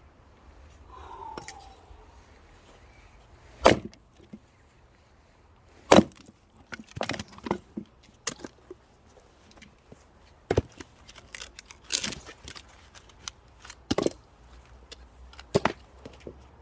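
Firewood being struck and knocked: sharp wooden cracks at uneven intervals, the two loudest in the first half, with smaller knocks between.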